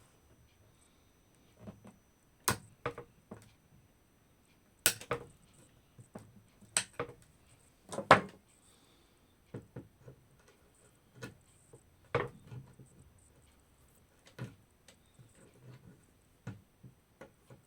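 Staples and tacks being prised out of a wooden chair frame with a metal tool: sharp irregular clicks and knocks, one every second or two, the loudest about eight seconds in.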